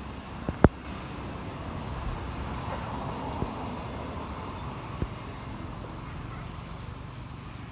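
Steady low outdoor rumble that swells a little in the middle, broken by a few short sharp knocks, the loudest just under a second in.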